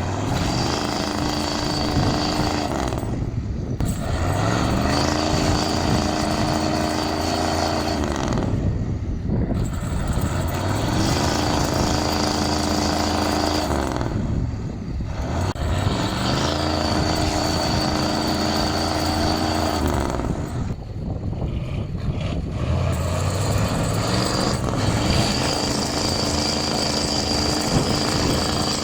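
Heavy truck's diesel engine running under load, its pitch rising and falling in a cycle that repeats about every five to six seconds.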